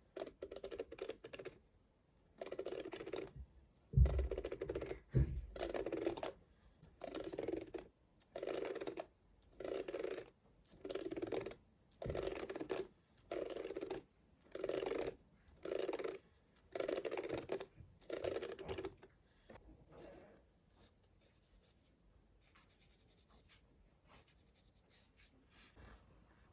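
A massage hairbrush making repeated short, scratchy swishes, about one a second. After about 19 seconds they give way to faint, sparse scratching from an afro comb.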